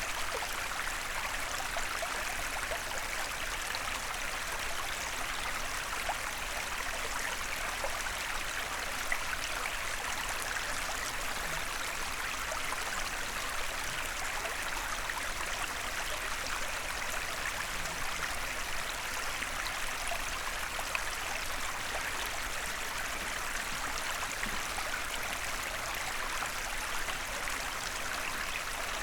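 Small forest stream running steadily: a continuous rush and babble of water, with a few slightly sharper splashes here and there.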